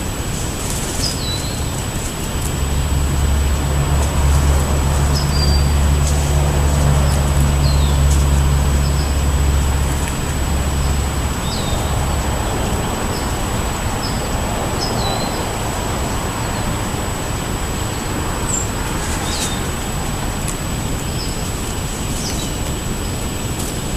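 Street traffic, with a heavy vehicle's low rumble passing for about ten seconds early on and then fading. Small birds give short high chirps now and then over it.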